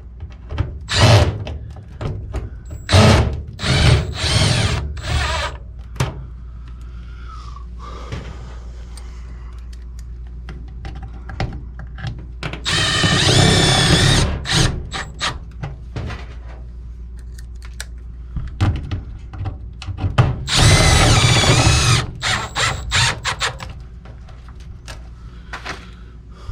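Cordless drill/driver running in several separate bursts, most about a second long, with two longer runs past the middle.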